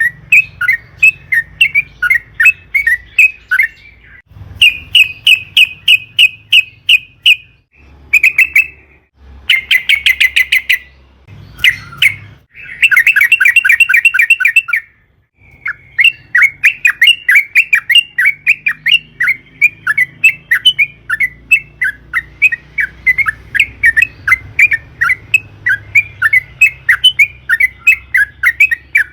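Yellow-vented bulbul (trucukan) singing in runs of quick, loud repeated notes, broken by short pauses, with faster rolling trills about ten seconds in and again around thirteen to fifteen seconds.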